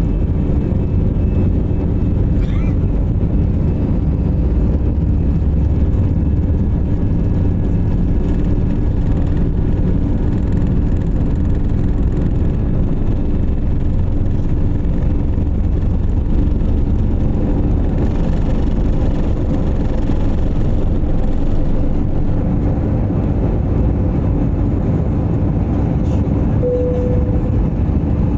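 Passenger aircraft cabin noise during takeoff: the engines and airframe making a loud, steady low rumble with a few steady hums in it. A short tone sounds briefly near the end.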